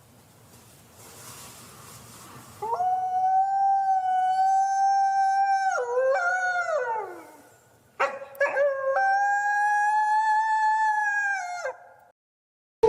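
A wolf howling: two long, steady howls, the first breaking and falling away at its end, the second opening with a few short broken notes before it holds steady and drops off. A faint hiss comes before the first howl.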